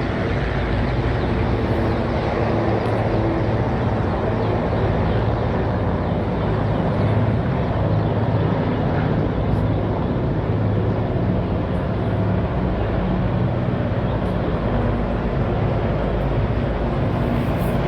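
Helicopter engine and rotor running steadily, a continuous low hum over a rushing noise.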